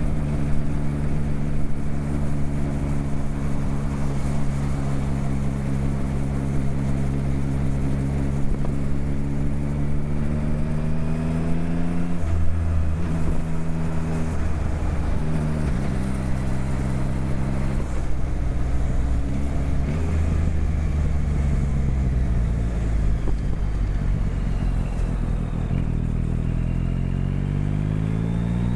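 Motorcycle engine under way on a ride, its note climbing slowly as it pulls through the revs, dropping with a gear change about twelve seconds in, running steadier, then climbing again near the end, over a steady low rumble.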